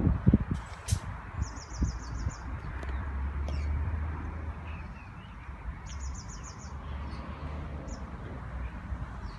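A small bird singing short, rapid high trills, twice, over a steady low rumble, with a few low thumps at the start.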